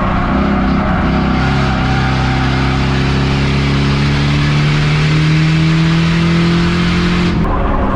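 Race car engine running hard with a slowly rising pitch as it pulls up through its revs, then cut off suddenly near the end.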